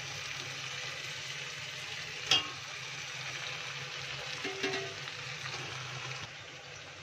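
Marinated chicken pieces sizzling as they fry in hot oil and onion-tomato masala in a metal pot. One sharp knock comes about two seconds in, and some lighter clatter a couple of seconds later. The sizzle turns quieter near the end.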